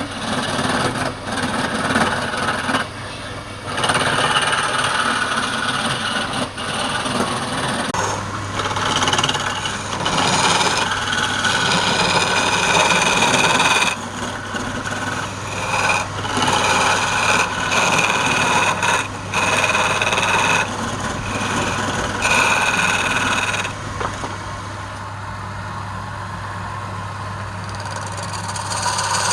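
Wood lathe running while a turning tool cuts the spinning wood, giving repeated stretches of scraping, shaving noise with short breaks. A steady motor hum comes in about a third of the way through, and some cuts carry a high singing tone.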